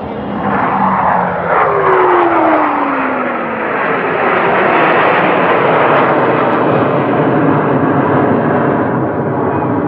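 Military jet making a fast pass over the crowd: loud engine noise swells at the start, and its pitch slides down as the aircraft goes by, leaving a steady loud jet rumble.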